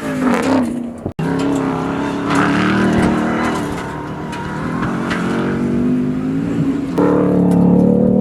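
Ram 1500 TRX's supercharged 6.2-litre HEMI V8 running under load, its pitch rising and falling slightly. The sound breaks off abruptly about a second in, then goes on and grows louder near the end.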